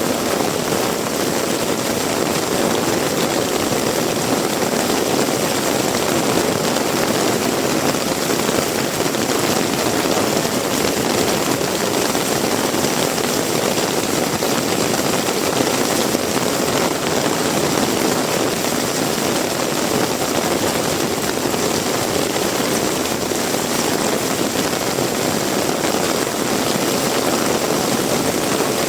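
Heavy rain pouring down in a dense, steady rush, with no break or change.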